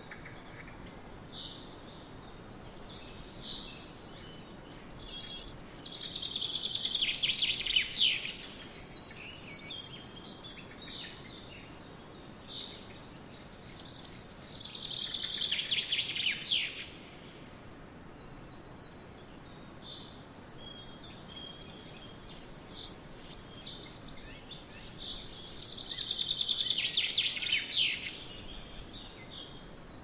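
Woodland songbirds singing: one bird repeats a loud song phrase of about two seconds, a rapid run of high notes, three times, while other birds chirp briefly between. Underneath runs a faint steady rush of a shallow forest stream.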